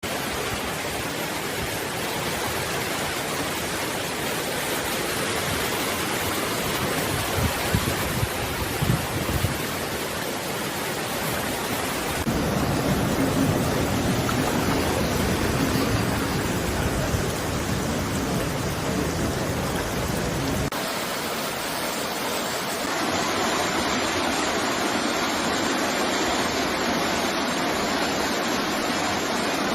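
Floodwater rushing in a flash flood, a loud steady torrent that changes character abruptly twice, about 12 and 21 seconds in. A few knocks are heard around 8 seconds.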